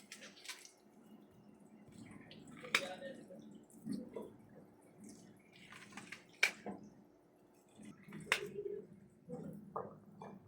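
Scattered clicks and knocks of household objects being handled, some with a short ring like a dish or utensil, with louder knocks about three, six and a half and eight seconds in.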